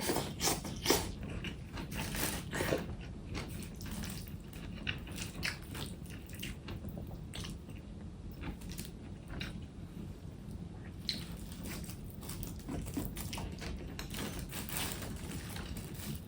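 A person eating: irregular crunchy bites and wet chewing, with the loudest bites in the first three seconds.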